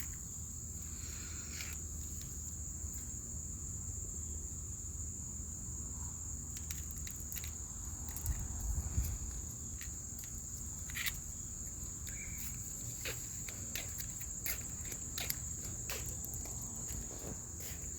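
Steady, high-pitched chorus of insects such as crickets, with scattered light clicks and rustles over it and a few louder rustling bumps about eight to nine seconds in.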